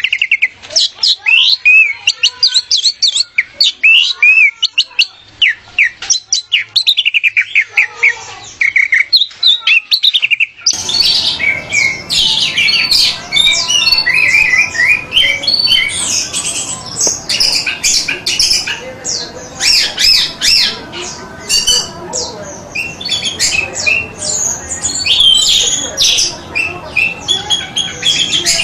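Orange-headed thrush (anis merah) singing a fast, varied song of quick whistled sweeps and chattering notes. About 11 seconds in the recording changes abruptly to a denser stretch of song over steady background hiss.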